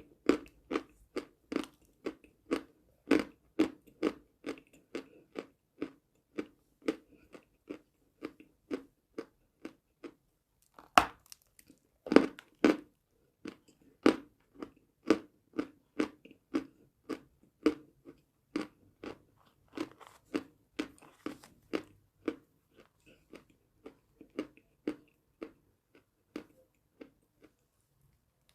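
Close-up crunching and chewing of edible chalk, about two crisp crunches a second. Two louder bites come about eleven and twelve seconds in, and the chewing grows softer and sparser towards the end.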